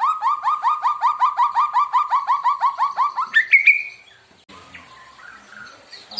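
White-rumped shama singing a fast run of repeated rising notes, about six a second. About three seconds in the run ends on a higher drawn-out note, followed by quieter, scattered notes.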